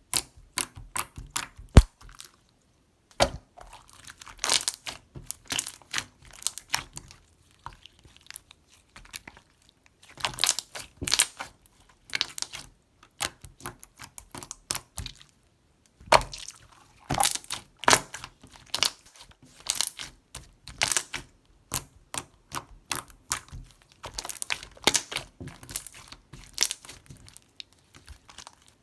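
Mixed water-jelly slime being squeezed, pressed and stretched by hand, giving dense, irregular clicks and pops in clusters with short pauses between them.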